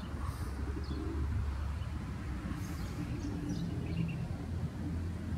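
Birds calling in the background, with a few short high chirps, over a steady low rumble.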